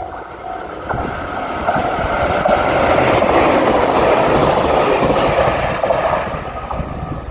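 Diesel limited express train passing over a level crossing: its running and wheel noise build over a couple of seconds, peak in the middle and ease off near the end, while the crossing's warning bell rings on underneath.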